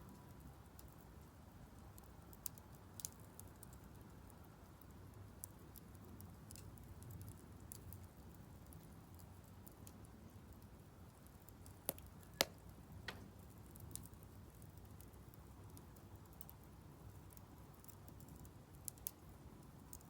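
Split firewood burning in a Solo Stove Campfire fire pit, crackling faintly with scattered sharp pops over a low steady rumble; the loudest pops come about twelve seconds in.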